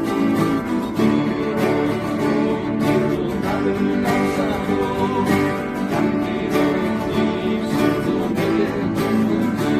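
Acoustic guitar strummed in a steady rhythm, accompanying a folk song with a voice singing along.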